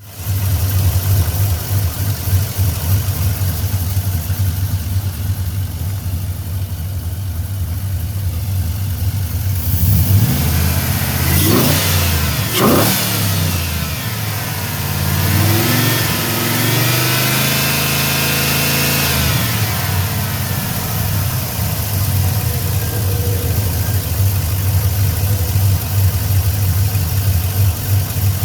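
Chevrolet 5.3 L LM4 aluminium V8 idling steadily, blipped twice sharply about a third of the way in, then held at higher revs for several seconds before dropping back to idle.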